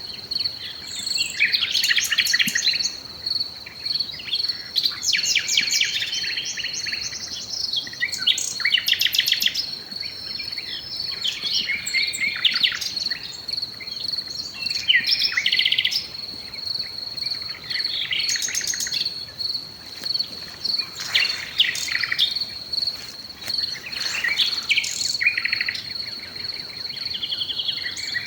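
Several songbirds singing and chirping in overlapping, varied phrases, over an insect's steady high-pitched trill.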